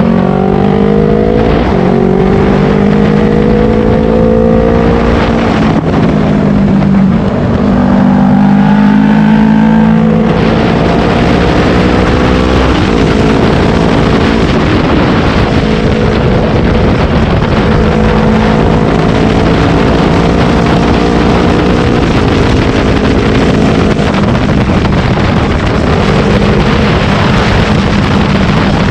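Yamaha R3's parallel-twin engine running hard, its pitch climbing and dropping back at shifts about 6 and 10 seconds in, then holding fairly steady. Wind rush on the microphone grows from about 10 seconds in.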